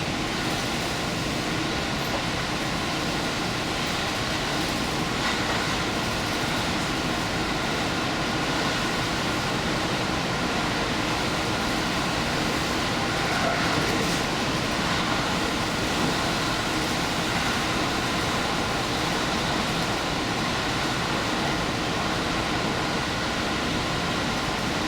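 Diesel limited express train running steadily at speed, heard from on board: an even rumble of wheels on rail and engine with a faint steady whine.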